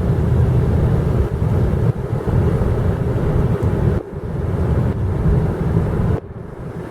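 Car driving, heard from inside the cabin: a steady low rumble of road and engine noise that dips briefly about four seconds in and drops quieter near the end.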